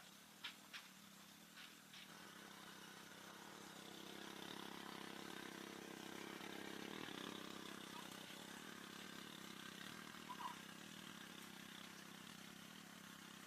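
A faint engine drone that grows louder over a few seconds and then slowly fades, after a few light clicks near the start.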